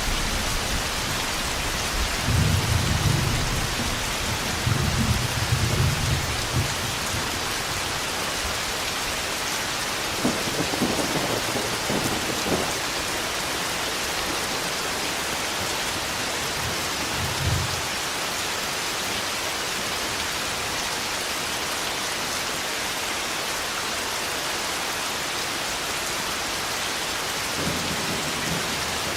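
Heavy rain falling steadily during a thunderstorm, with low rolls of thunder: two close together a few seconds in, another about ten seconds in, a short one a little later, and a new roll starting near the end.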